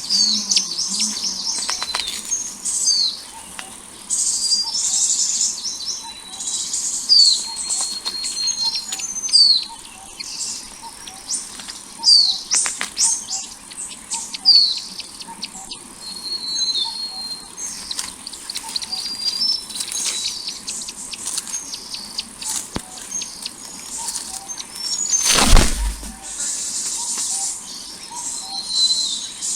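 Small birds chirping and calling again and again, with quick runs of high notes and down-slurred whistles. One loud, brief thump or rustle comes about 25 seconds in.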